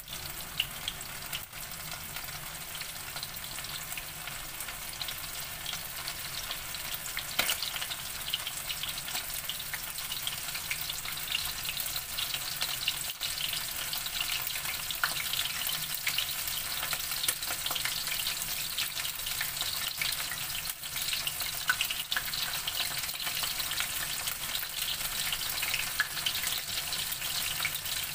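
Flour-coated chicken intestines deep-frying in hot oil: a steady sizzle with many small crackles.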